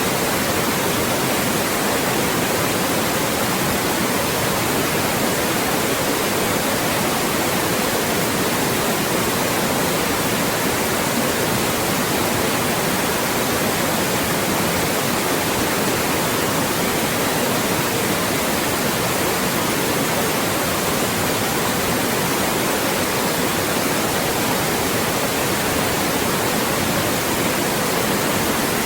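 Loud, steady synthetic white noise, an even hiss across the whole range with no change, used as a speech blocker.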